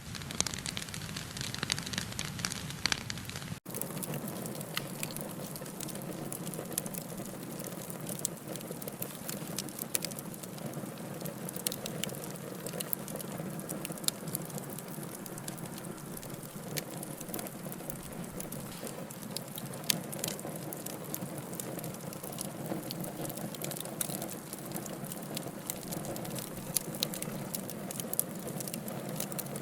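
Wood fire burning in a fireplace: frequent sharp crackles and pops over a steady hiss, with a brief dropout about three and a half seconds in.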